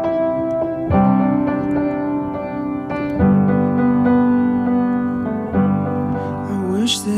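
Background music: held piano chords that change every couple of seconds, with a singing voice coming in near the end.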